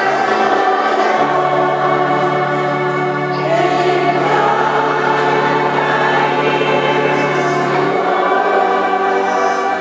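Group of voices singing a hymn together in held chords, with a low note sustained through most of it.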